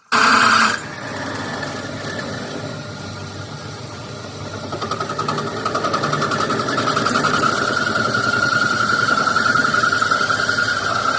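A machine running with a fast, even, rhythmic buzz, which gets louder about four seconds in and stays steady.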